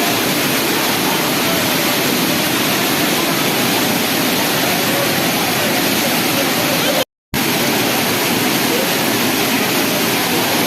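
Heavy rain pouring down as a loud, steady hiss. It drops out for a split second about seven seconds in, then resumes.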